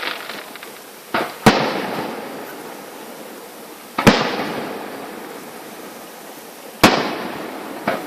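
Fireworks exploding: a series of loud bangs, about five in all and a few seconds apart, each followed by a crackle that fades away.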